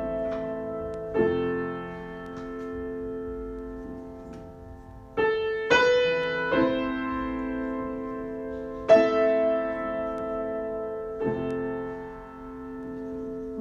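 Solo piano improvisation: slow, sustained chords struck every few seconds, each left to ring and fade before the next.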